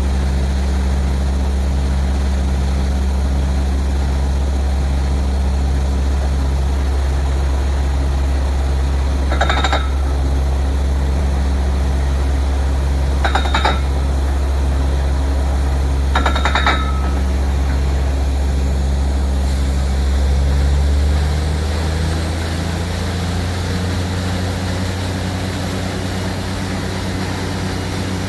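Borewell drilling rig's engine running steadily with a low, pulsing drone, broken by three short ringing knocks. About two-thirds of the way through, its note drops and changes.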